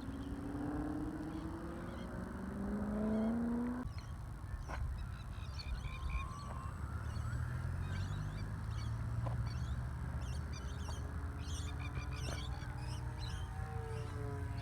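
Electric motor and propeller of an E-flite T-28 Trojan RC plane, whining and rising steadily in pitch for about four seconds before cutting off abruptly. A low rumble follows, with faint high chirps scattered through the rest.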